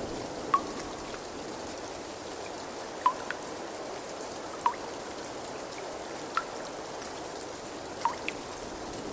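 Steady trickle of running water, with single water drops plinking five times, about every one and a half seconds.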